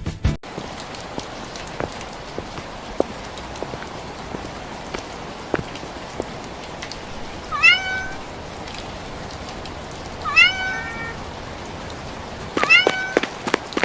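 A cat meowing three times, short calls a few seconds apart, over a steady patter of rain.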